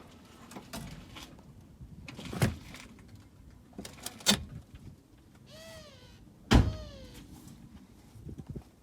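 Metal knocks and clanks from work on the brake caliper and hub, four sharp hits with the loudest about two-thirds of the way in. Two short squeals, each rising then falling in pitch, come a little past the middle.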